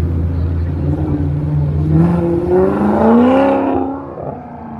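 Car engine accelerating hard, its pitch climbing steeply for about two seconds before dropping away near the end.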